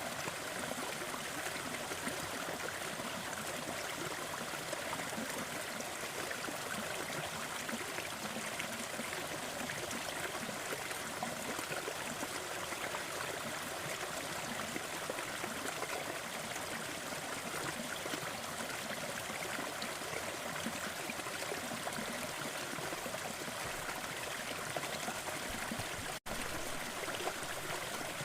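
Fireplace crackling layered over a steady rushing noise bed, with fine crackles throughout. The sound cuts out for an instant about 26 seconds in.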